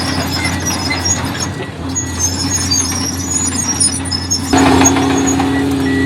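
Crawler bulldozer's diesel engine running with high squeaks and squeals from the tracks; the engine gets suddenly louder about four and a half seconds in, as under added throttle or load.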